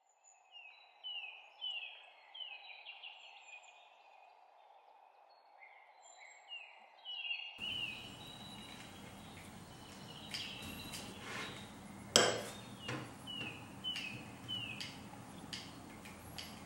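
Small birds chirping in quick runs of short falling notes over steady background noise. About halfway through, a noisier background comes in, with scattered clicks and one sharp, loud click about twelve seconds in.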